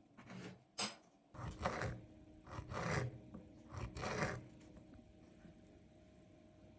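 Handling sounds: a sharp click about a second in, then several short scraping, rustling strokes over the next few seconds, after which only a faint steady hum remains.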